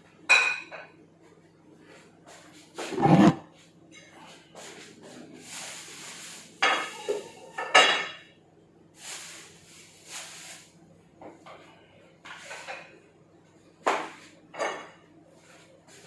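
Kitchen dishes and utensils being handled: scattered clinks and knocks on a counter, with a couple of brief rustling noises. A faint steady hum lies underneath.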